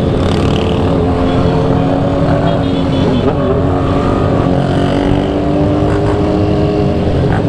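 Motorcycle engine running at a fairly steady speed while riding, its pitch drifting slowly up and down, over rumbling wind and road noise on the mic.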